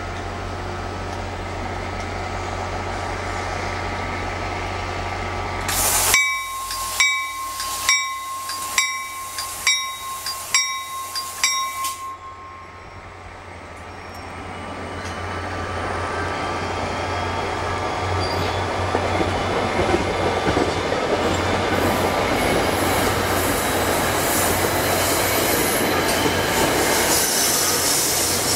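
NJ Transit multilevel commuter train pulling out: a steady low hum at first, then a bell rings about eight times, evenly spaced. After that the coaches roll past with a rumble and rattle that builds and stays loud.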